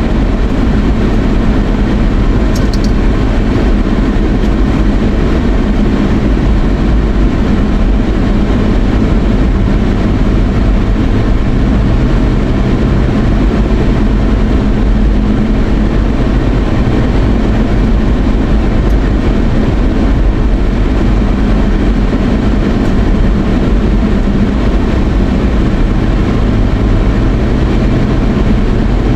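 Steady road and engine noise inside a moving car's cabin, an even rumble and hiss with no change.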